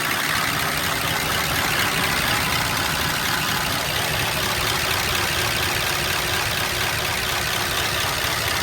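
Old pickup truck's engine idling steadily just after a cold morning start, running smoothly: it "purrs like a dang kitten".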